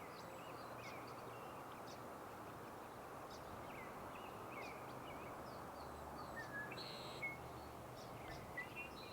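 Faint, scattered short chirps and calls of several small birds over a steady background hiss of outdoor ambience, a few calls a little louder in the second half.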